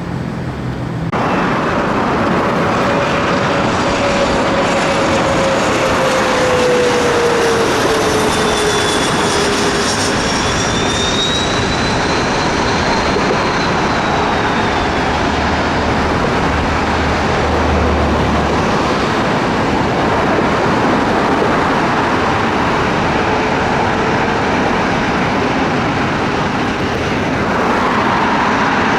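Jet airliner's engines running loudly as it passes, with a whine that falls in pitch; the noise starts abruptly about a second in.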